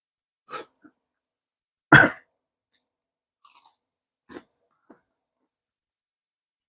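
Close-miked eating: a few separate bites and chews, with one loud crunchy bite about two seconds in.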